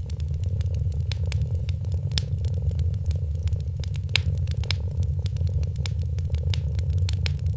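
A cat purring with a steady low rumble, while a fireplace crackles over it with many irregular sharp pops.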